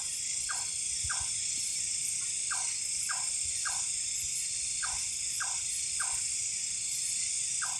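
Night chorus of crickets and other insects, a steady high shrill, with short calls that drop in pitch and repeat about twice a second, typical of frogs.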